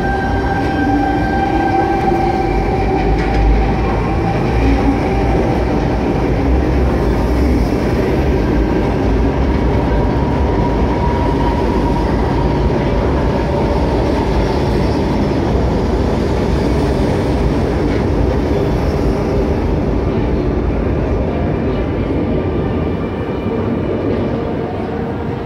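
Electric Sydney Trains double-deck suburban train moving through an underground station platform: a steady rumble of wheels on rail with the whine of its electric motors, which rises in pitch in the first couple of seconds.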